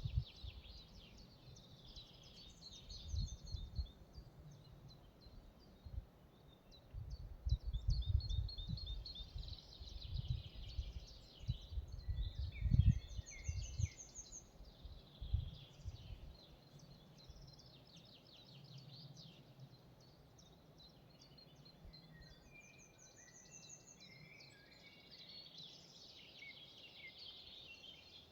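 Several songbirds singing in a forest, with trills and short phrases overlapping throughout. During the first half, gusts of wind rumble on the microphone, then it calms.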